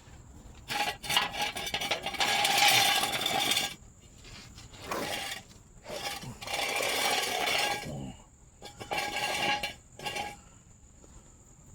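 A metal jack stand being moved under the truck: four rasping scrapes with light metallic clinks, the longest about two seconds in.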